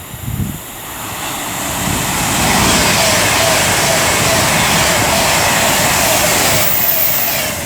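Avanti West Coast Class 390 Pendolino electric train passing through the station at speed: a rush of wheel and air noise that builds over the first two seconds, then holds loud and steady, easing slightly near the end.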